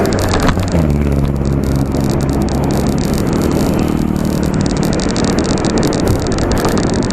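A motor vehicle's engine passes close by, its hum appearing about a second in, dropping slightly in pitch and fading over a few seconds. Steady wind and road noise from riding a bicycle runs underneath.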